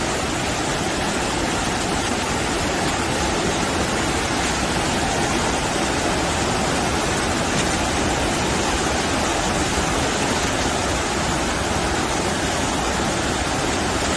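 Fast-flowing floodwater from an overflowing river, a steady and fairly loud rush of water that does not change.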